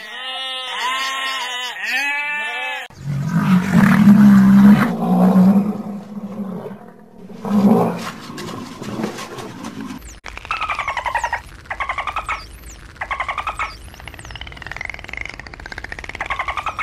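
Sheep bleating for the first few seconds. Then a rhinoceros gives deep, loud calls. From about ten seconds in, a dolphin makes rapid click trains in repeated bursts, with high whistles above them.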